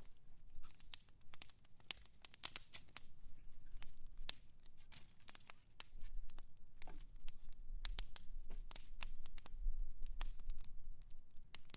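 Wood fire crackling, with many irregular sharp pops and snaps over a low rumble that grows stronger about halfway through.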